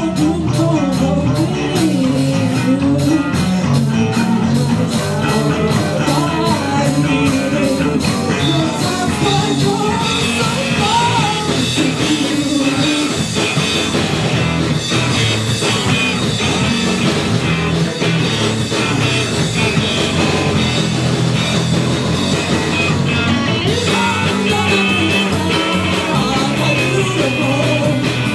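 Live rock band playing: electric guitars, bass and drums with a steady beat and a voice singing over them.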